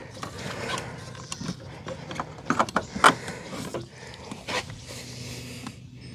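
Hands working at a fuel line fitting on a fuel pump assembly: scattered small clicks and rubbing, with a few sharper clicks around the middle.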